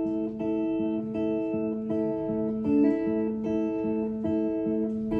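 Acoustic guitar playing the closing bars of the song: the same chord strummed or picked in an even rhythm, about two strokes a second.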